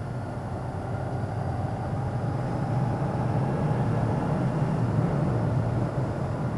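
Motorcycle being ridden at road speed: the engine runs steadily under wind noise, a little louder in the second half.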